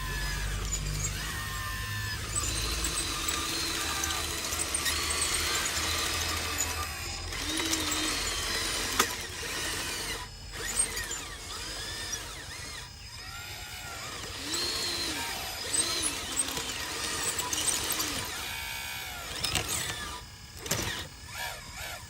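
Small electric motors and gearboxes of radio-controlled construction models whining, with many short pitch glides rising and falling as the machines are worked.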